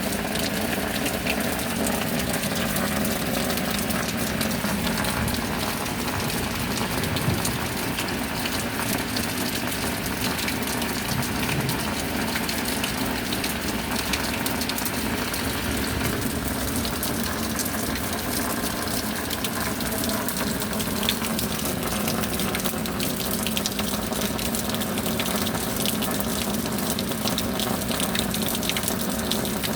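Steady rain falling: an even wash of water noise dotted with many small drop ticks, unchanging in level.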